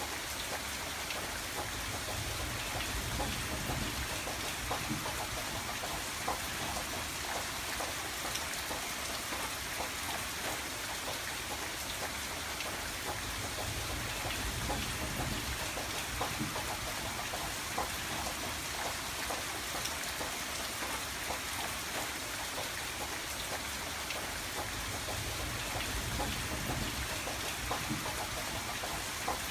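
Steady rain falling on a window, with many small drop ticks over an even hiss. A low rumble swells and fades a few times underneath.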